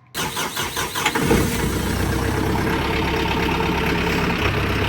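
An engine being started: a second of starter cranking, then it catches with a brief rise in revs about a second in and settles into a steady idle.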